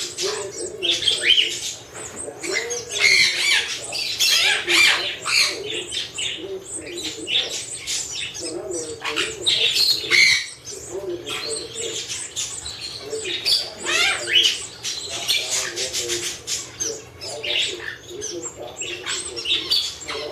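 Canary chicks begging for food as a parent feeds them: rapid, dense, high-pitched squawking calls, with chirping from other canaries.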